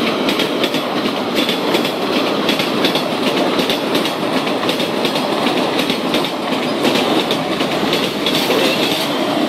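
A passing train: a loud, steady rumble with its wheels clattering over the rails in a rapid, continuous run of clicks.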